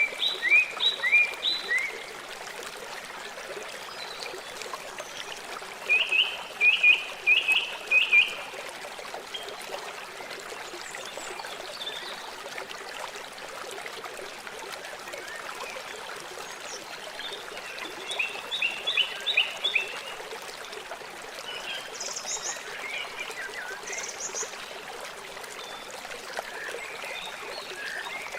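River water flowing in a steady rush. Over it, an animal calls in four bursts of rapid, short, high chirps.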